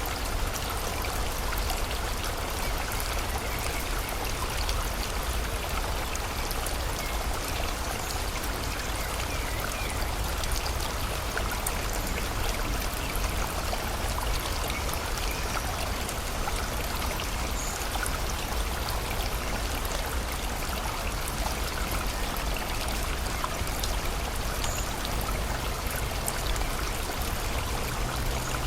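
Steady rush of a flowing river or stream, with rain falling and pattering throughout.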